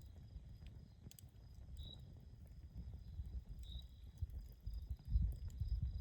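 Campfire burning with scattered sharp crackles. Faint high chirps repeat about every two seconds over a thin steady high tone, and a low rumble swells near the end.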